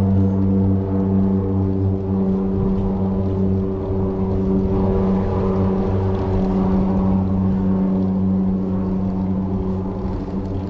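Steady low engine drone with a strong hum that holds one pitch throughout.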